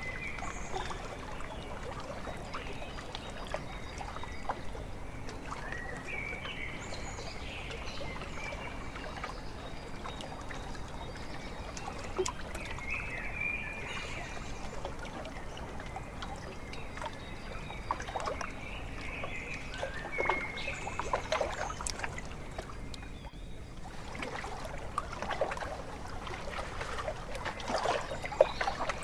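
Small waves lapping and splashing at a lakeshore, with birds calling now and then, in short high calls a few seconds apart.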